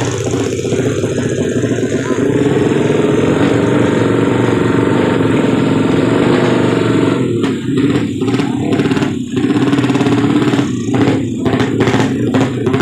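Drag bike motorcycle engine running loud and steady, then blipped repeatedly in short bursts from a little past halfway.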